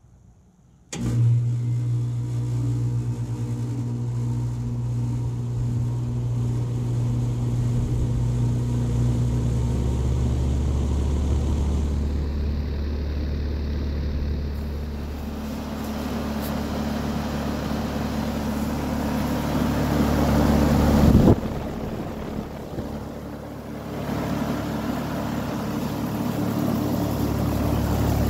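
A Carrier Comfort Series heat pump with an LG scroll compressor starting up in heat mode. The compressor cuts in suddenly about a second in with a steady hum, and the outdoor fan's rushing noise builds over the following seconds. About three-quarters through there is a sharp knock, the sound drops briefly, then it runs steadily again.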